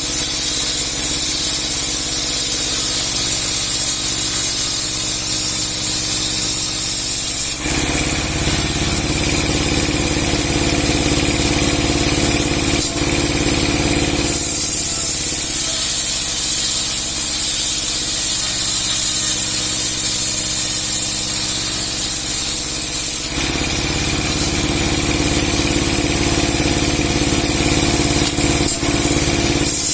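Large 30 hp sawmill machine with a 60 cm steel saw blade running loud and steady while ripping big logs. Its sound switches back and forth between two states every seven to nine seconds, about a quarter of the way in, halfway through and again about three quarters in, each with its own hum and a high hiss.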